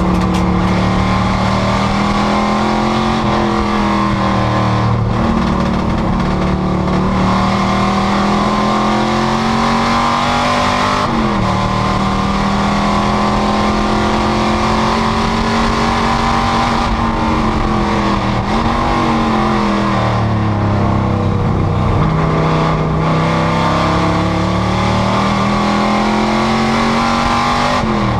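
Panoz GTS race car's V8 engine running hard at racing speed. Its pitch climbs slowly and drops sharply at gear changes, about a third of the way in and again near the end, with a dip to a lower note for a couple of seconds past the middle.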